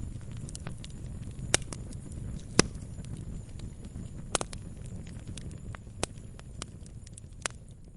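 Wood fire in a fireplace crackling: irregular sharp pops and snaps over a low, steady rumble of the flames, with the loudest pops about one and a half and two and a half seconds in.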